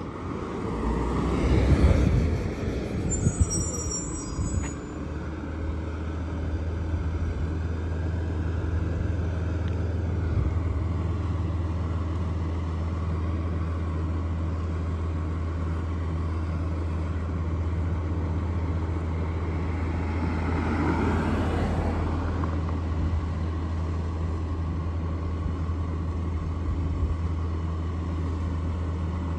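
Garbage truck engine running with a steady low hum. The sound swells louder near the start and again about two-thirds of the way through.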